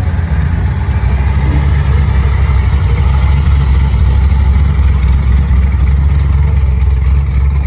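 A vehicle engine running steadily with a deep, low rumble that cuts off abruptly at the end.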